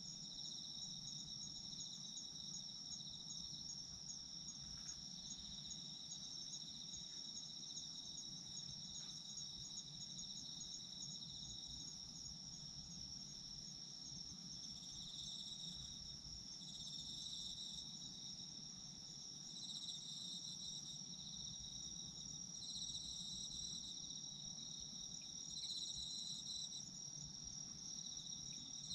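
Autumn crickets and other insects calling together: a steady high-pitched trill runs throughout, and from about halfway another insect adds repeated chirping phrases every two to three seconds.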